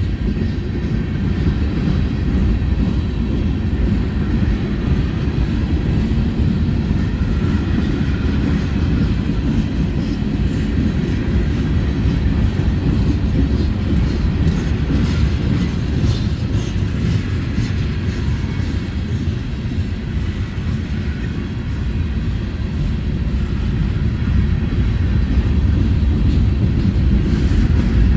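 Norfolk Southern mixed freight train rolling past, a steady low rumble of its cars on the rails.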